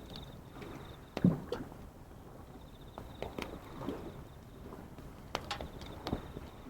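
Wood campfire crackling, with irregular sharp pops and snaps, the loudest about a second in. Behind it, an insect trills faintly on and off in a high pulsing tone over a steady low wash of waves.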